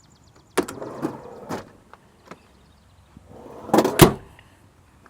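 An ambulance door being worked. A latch clacks and rattles about half a second in. About four seconds in, the door swings and shuts with a sharp slam, the loudest sound.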